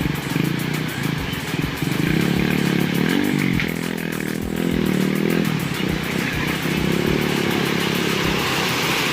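A motor engine running steadily, its pitch rising and falling a little in the middle.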